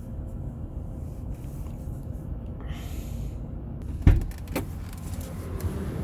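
Steady low rumble inside a GMC Savana van, then a sharp clunk about four seconds in and a lighter one half a second later as the van's door is unlatched and opened.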